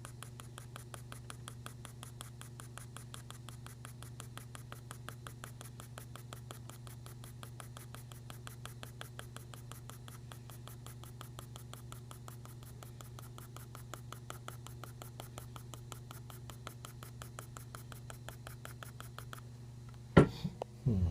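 Drawing strokes scratching on paper in a rapid, even rhythm as grass is shaded in, over a steady low hum. A sharp knock comes near the end.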